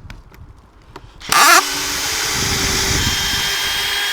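Power drill spinning up with a rising whine about a second in, then running steadily at speed.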